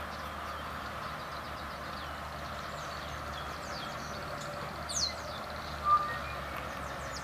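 Birds singing: several short, falling chirps and whistles, with one clear downward whistle about five seconds in and a brief loud note just after. Under them runs a steady low background hum.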